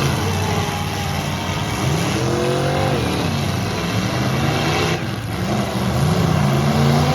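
Several full-size trucks' engines revving at once in a demolition derby, their pitch rising and falling over a constant din.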